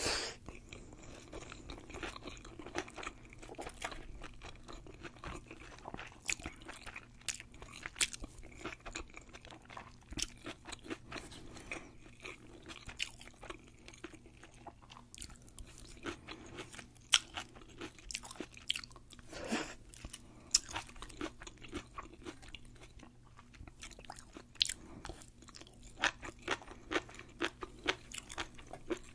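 A person chewing deep-fried sushi roll: many irregular crisp crunches and crackles of the fried coating mixed with soft, wet chewing.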